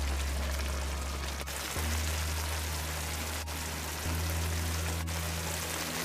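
Steady sizzling hiss from the cook-up rice pot as spinach goes in, over soft background music whose low bass notes change a couple of times.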